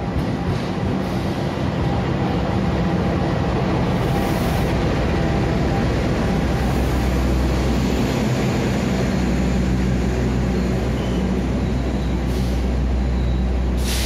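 A GE CC206 diesel-electric locomotive passes at close range with its engine running, followed by its long train of passenger coaches rolling by along the platform. A loud, steady low hum and rolling noise carry through, with a few short clacks.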